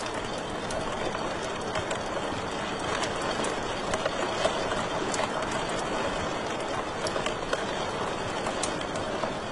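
Wood fire in a fireplace crackling: a steady rushing hiss with small, sharp pops scattered irregularly through it.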